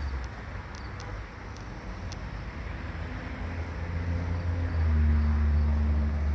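Low outdoor rumble with a faint steady hum, swelling louder about four seconds in, with a few faint light ticks in the first two seconds.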